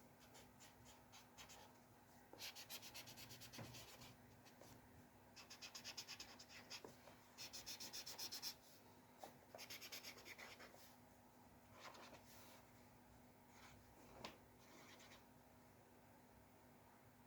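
Faint scratching of a drawing tool on paper, in quick runs of short rapid strokes like hatching. It comes in several bursts of about a second each, with pauses between them.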